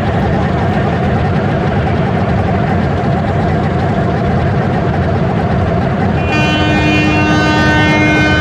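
Steady rumble of a train running. About six seconds in, a horn sounds a held blast of several notes together for about two seconds.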